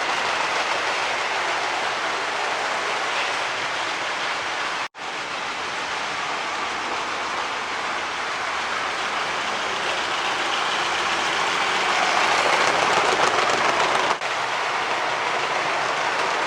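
LEGO model trains running on plastic track: a steady rattling hum of small electric motors and wheels. The sound cuts out for a moment about five seconds in and is a little louder near the end.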